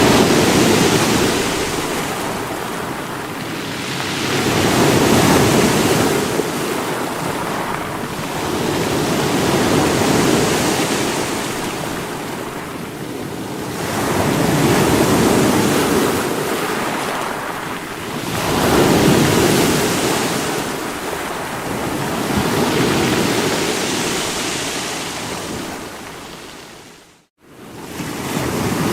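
Sea waves breaking against rocks, the surf swelling and ebbing about every four to five seconds. Near the end the sound fades out to a moment of silence and then comes back.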